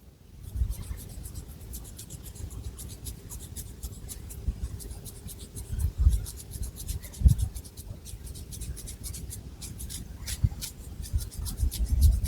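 Long fingernails scratching through long hair and over the scalp: a continuous run of fine, rapid scratchy crackles, with a few soft low thumps from handling.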